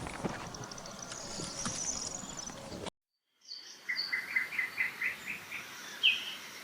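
Scattered knocks and clicks with faint high chirps, cut off abruptly by a short silence. Then a bird calling a quick series of about seven short chirps, roughly three a second, with one sharper call near the end over steady outdoor background noise.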